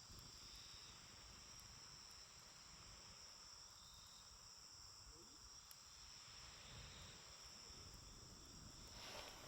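Faint, steady chorus of crickets, with a few faint ticks from the wood fire and a short rustle near the end.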